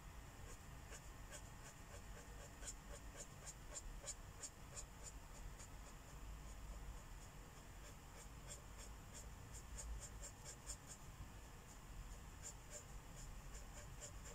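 Faint felt-tip marker strokes scratching back and forth on a colouring-book page, quick, several strokes a second, in runs of a few seconds with short pauses between.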